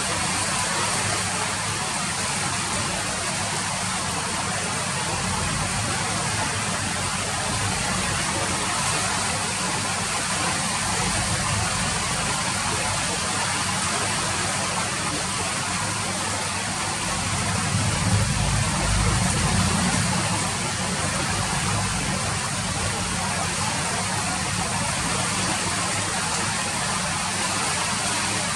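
Steady rain falling, an even hiss of drops throughout. A low rumble swells for a few seconds about two-thirds of the way through.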